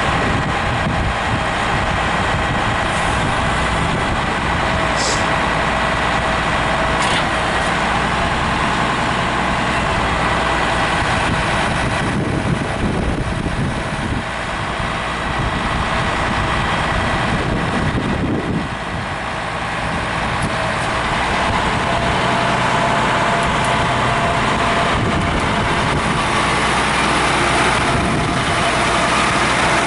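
A truck engine running steadily, with a steady whine over it. The sound dips in level twice, about halfway through, then comes back.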